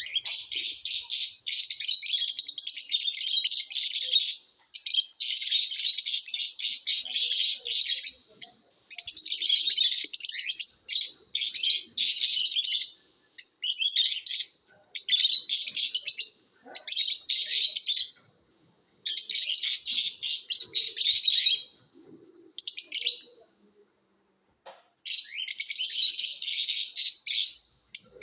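Lovebirds chirping and chattering rapidly in high-pitched bursts of a few seconds each, broken by short pauses.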